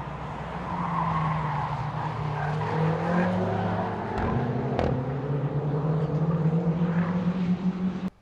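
Car engine pulling under load, its pitch climbing slowly, with a couple of brief clicks partway through; the sound cuts off abruptly near the end.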